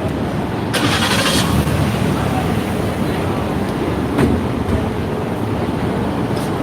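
Road traffic: motor vehicle engines running close by in a steady rumble, with a brief hiss about a second in.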